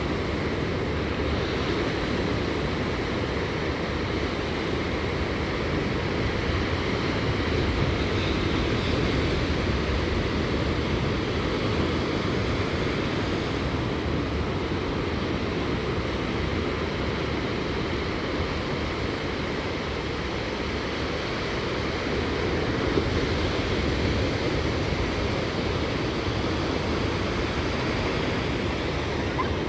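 Gentle surf from a flat-calm ocean with no big waves: a low, steady wash that swells slightly a couple of times.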